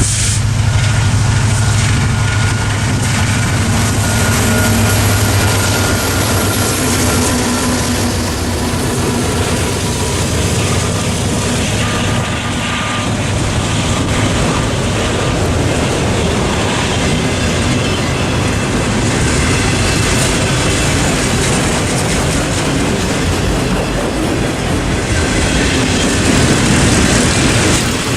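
Train rolling past close by: a continuous loud rumble and clatter of wheels on the rails, with a deep low hum over the first six seconds or so and faint squeals from the wheels here and there.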